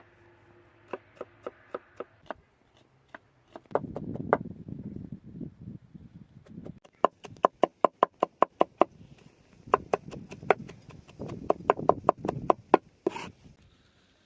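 Rapid runs of sharp knocks on wood, about six strikes a second, like a knife chopping on a board, with rough scraping noise between the runs.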